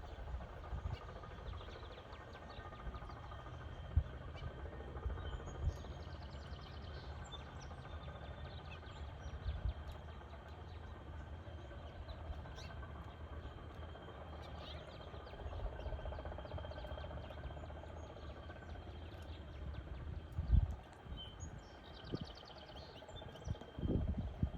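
Outdoor ambience at a bird feeder: a few faint bird chirps and short trills over a low steady rumble, with a few dull thumps.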